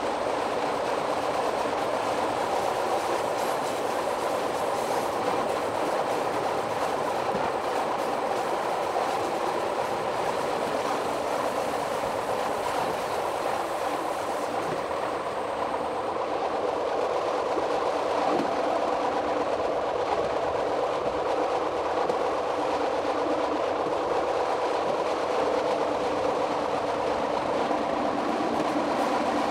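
Metre-gauge electric train of the Jura Railways running steadily along the track, heard from the driver's cab, with a continuous rolling noise and faint steady tones.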